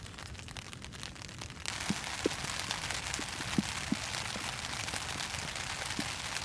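Rain falling steadily, with drops plinking on a surface. A fainter stretch of light ticks gives way suddenly, less than two seconds in, to a louder, even rain hiss.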